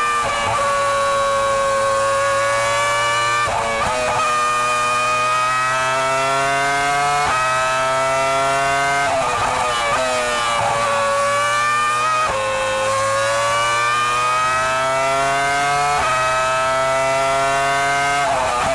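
Formula 1 V10 engine heard onboard at high revs. Its pitch climbs through each gear and drops sharply at each upshift, about every three to four seconds. About halfway through, the revs fall and climb again, as for a corner.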